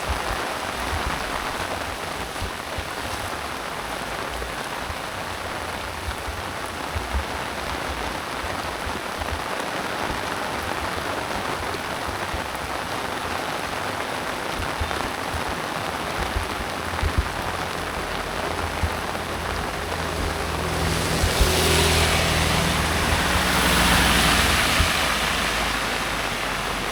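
Heavy rain falling steadily on surfaces, an even hiss with scattered drips and thumps. About three-quarters of the way through it swells louder for a few seconds, with a low rumble underneath.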